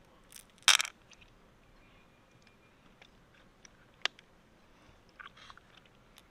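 Freshwater mussel shell being handled and pried open: a loud crunching crack just under a second in, a single sharp click about four seconds in, and a short scrape near the end.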